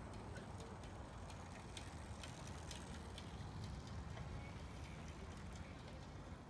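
Faint ambient background: a steady low rumble with scattered light clicks and ticks, thickest in the first four seconds or so and thinning out after.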